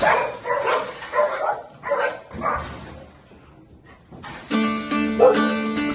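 A pit bull mix dog barking repeatedly in short bursts for the first few seconds. About four and a half seconds in, background music with plucked strings starts.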